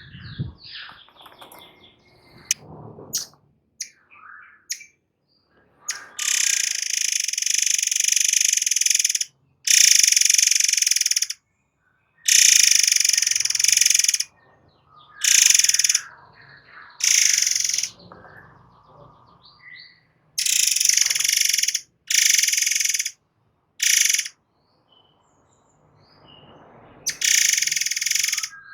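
Murai air song in rapid-fire 'nembak' bursts: about nine dense, high-pitched phrases, each one to three seconds long, separated by short pauses, with a few softer scattered calls in the first few seconds.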